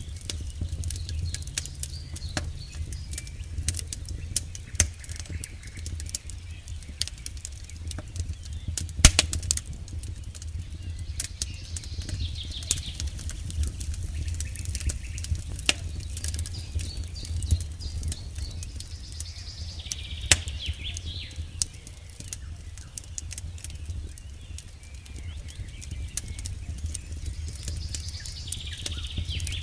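Campfire burning, with frequent crackles and sharp pops of burning wood over a low steady rumble of the flames. One pop about nine seconds in is louder than the rest.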